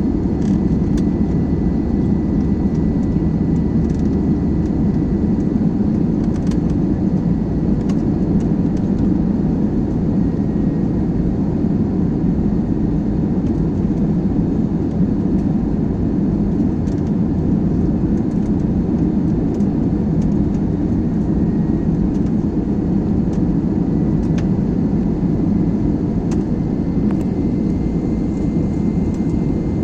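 Steady rumble of an airliner heard from inside the cabin: engine and airflow noise holding at one level, with a faint high whine.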